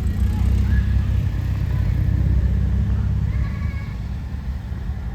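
Wind buffeting the microphone in a snowy blizzard, a steady low rumble, with faint high calls from children playing in the snow twice.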